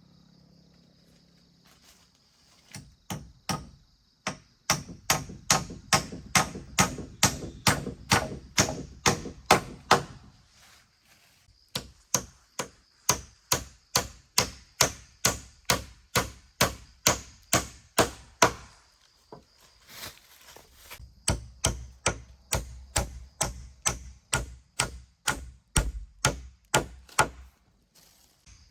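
Repeated sharp blows of a hand tool striking, about three a second, in long runs with short pauses; some stretches carry a heavier thud.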